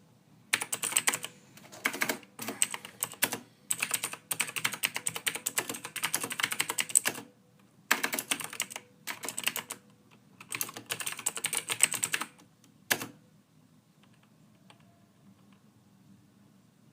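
Computer keyboard being typed on in quick bursts of keystrokes with brief pauses between them. The typing stops about three-quarters of the way through, leaving only faint hiss.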